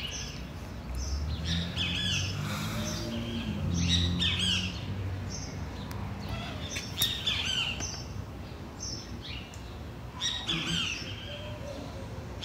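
Several birds chirping in repeated quick bursts of short calls, with a low hum underneath during the first few seconds.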